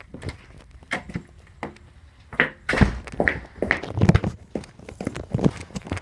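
A run of irregular thuds and clunks, busiest in the middle: someone putting on and stepping in a pair of oversized shoes.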